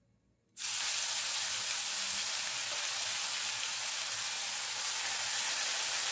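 Wet onion and ginger paste dropped into hot oil in a kadai: a sizzle that starts suddenly about half a second in and holds steady.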